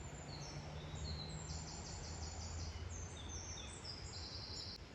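Small songbirds singing: short high notes at several pitches, including a quick run of repeated notes, over a steady low background hum.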